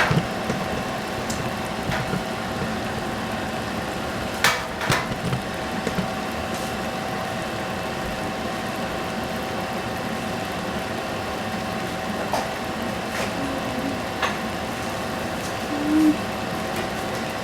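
Steady kitchen stove-top noise with a faint, even hum, broken by a few brief knocks of cookware.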